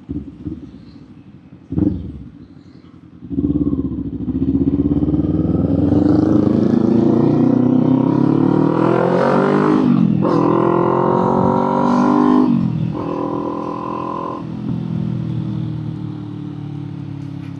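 Kawasaki Z400 parallel-twin engine idling with two short throttle blips, then pulling away about three seconds in, its note rising through the gears with upshifts about ten and thirteen seconds in, then easing off to a lower, steadier note.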